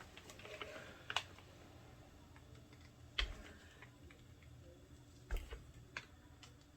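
Scattered light clicks and soft knocks, a handful over a few seconds, from a painted canvas being handled and tilted during an acrylic pour.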